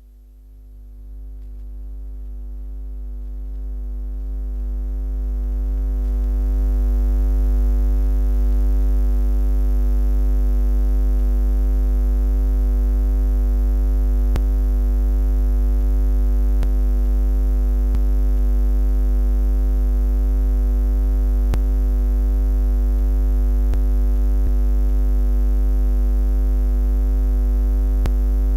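Low electronic buzzing drone: a deep steady hum with a bass rumble and evenly spaced overtones. It fades in over the first six or seven seconds, then holds steady.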